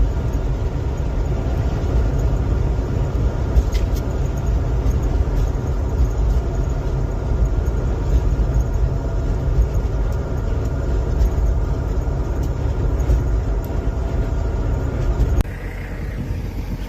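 Road vehicle driving: a steady low rumble of engine and road noise, which drops suddenly to a quieter hum about a second and a half before the end.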